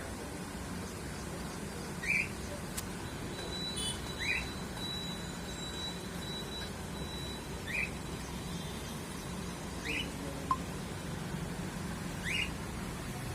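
A bird giving short, quickly rising chirps, five in all, spaced about two to three seconds apart, over a steady low hum. A thin, steady high tone sounds for a few seconds in the middle.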